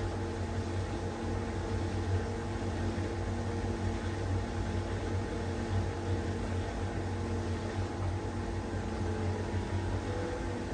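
LG heat pump tumble dryer running steadily in its cool-down and condenser-cleaning stage: an even machine hum with a low drone and a few steady tones over a rushing fan noise.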